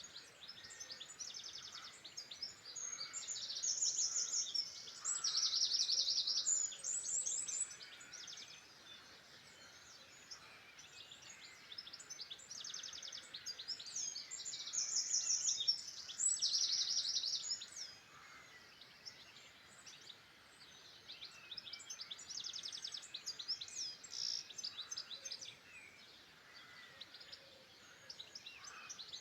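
Songbirds singing: fast, high trilling phrases a few seconds long, several voices overlapping, over a faint steady outdoor background. The song is loudest in two stretches, a few seconds in and again about halfway through.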